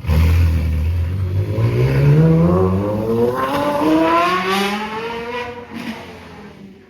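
Sports car engine accelerating hard, its exhaust note climbing steadily in pitch for about four seconds, then fading as the car pulls away.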